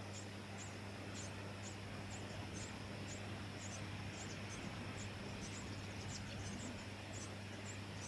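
Brown-headed honeyeaters chirping at the nest: short, high, thin calls repeated about three times a second, over a low steady hum.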